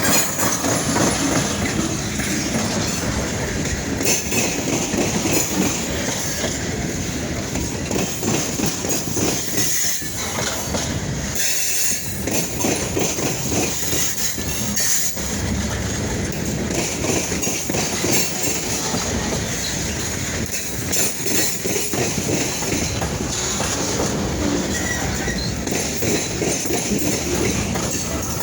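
Freight train rolling past, its railcar wheels making a steady rumble with rapid clicks over the rail joints and a high wheel squeal.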